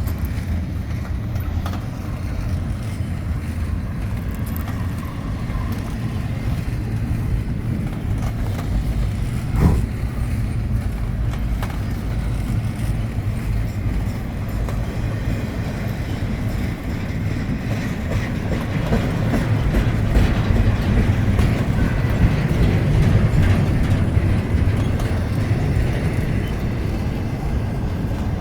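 Train rolling past, a steady low rumble of wheels on rail that grows louder in the second half, with a single sharp knock about ten seconds in.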